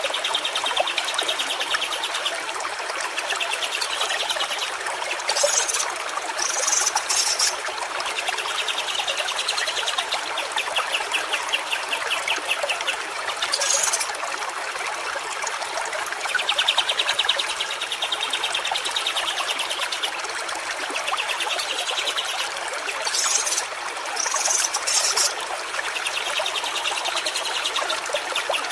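Steady rush of a flowing stream, with short, rapidly pulsed trills coming back every few seconds and a few brief high-pitched calls.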